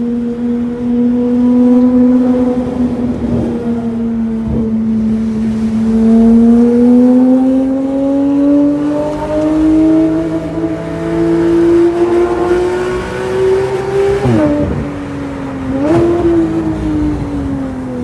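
Porsche 911 GT3 RS (991.1) naturally aspirated 4.0-litre flat-six running through an Innotech (IPE) exhaust as the car is driven. Its note climbs slowly under light acceleration, dips sharply twice near the end, then falls away.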